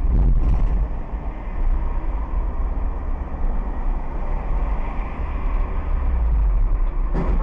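Steady low rumble of a road vehicle on the move: engine and road noise. A short sharp sound comes near the end.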